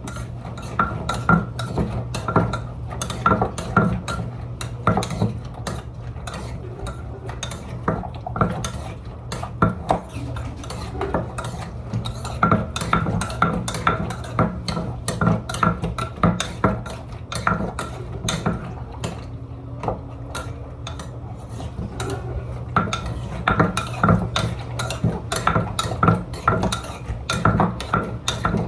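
Cucumber and pineapple thum salad being mixed: a utensil knocking and scraping against the vessel, several irregular strokes a second, over a steady low hum.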